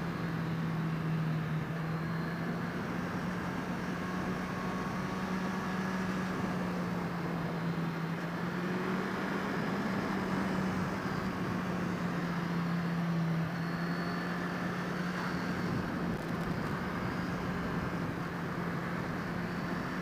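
Motorcycle engine running at a steady cruise, holding one even tone that drifts slightly up and down, over steady wind and road rush.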